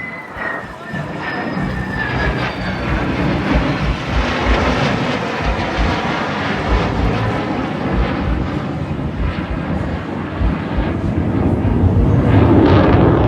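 Aircraft engine noise from a display flypast: a high whine falls in pitch over the first couple of seconds, then a loud rushing sound builds, peaking near the end.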